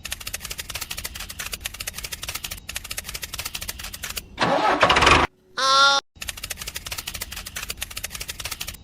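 A small engine running with a rapid, even knocking beat, cut about halfway through by a second-long loud rush and a brief stepped pitched tone, after which the knocking resumes.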